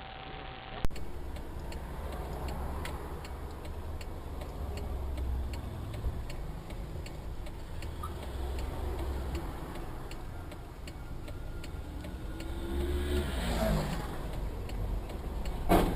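Car running, heard from inside the cabin: a low engine and road rumble with a steady ticking, and the engine note rising briefly near the end.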